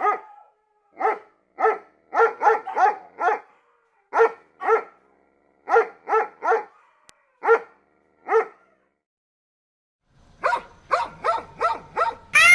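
A dog barking in single short barks, about fourteen of them at uneven intervals. After a short pause, a quicker run of short barks starts over a low hum.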